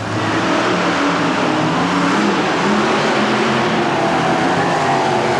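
Monster truck engines revving hard, the sound jumping up in loudness right at the start and staying loud, with pitch wavering up and down.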